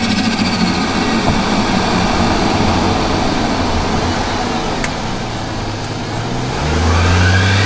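Turbocharged Barra inline-six in a Ford Falcon running near idle after the revs fall, then revving up again near the end with a rising pitch. A single sharp click about five seconds in.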